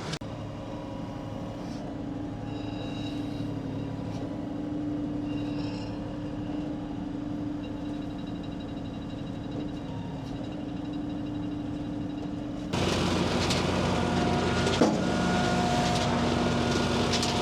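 An engine running steadily with a low hum. About two-thirds of the way through, the sound jumps abruptly to a louder, noisier engine sound.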